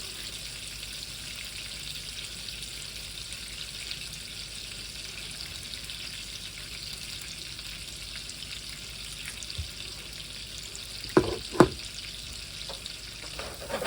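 Leftover cubed roasted potatoes and onion frying in fat in a pan, a steady sizzle, with two sharp knocks about eleven seconds in.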